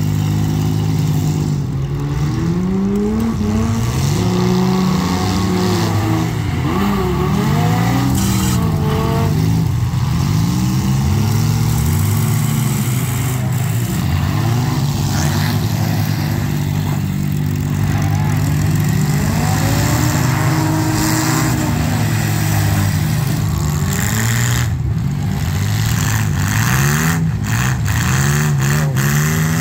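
Several compact demolition-derby car engines revving hard, their pitches rising and falling over one another as the cars drive and push in the arena. A few sharp knocks come near the end.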